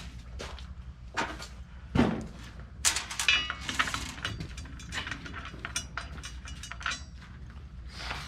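Small metal parts being handled during hands-on assembly: clinks, taps and knocks of bolts, washers and tools. A heavier knock comes about two seconds in, and a ringing metallic clatter about three seconds in.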